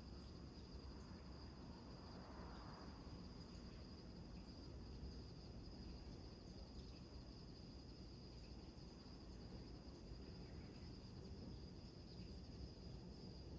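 Crickets trilling faintly and without a break in one steady high note, over a low, even rumble of surf.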